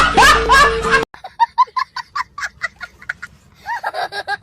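Comic laughter sound effect made of short honking, goose-like calls, about four a second. It drops suddenly to a quieter run about a second in and grows louder again near the end.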